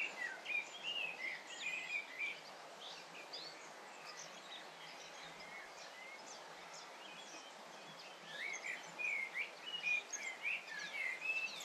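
Birds chirping: many short rising and falling calls over a faint, even background noise, busiest at the start and again in the last few seconds.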